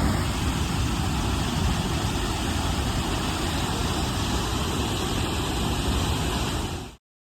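Steady roar of a large waterfall, with wind rumbling on the microphone. It cuts off suddenly near the end.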